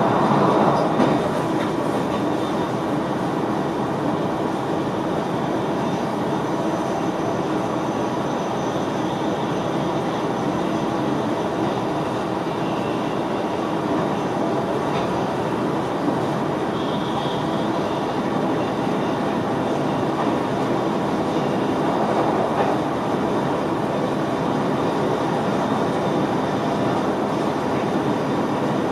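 NS VIRM double-deck electric train running along the track, heard inside the driver's cab: a steady rumble of wheels on rails with a few light knocks from the track.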